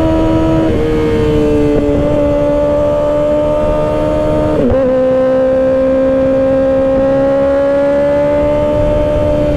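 Kawasaki Ninja ZX-6R 636's inline-four engine running at a steady cruise under way, its note dipping slightly twice, under a second in and about halfway, then slowly climbing. Wind rush on the microphone underneath.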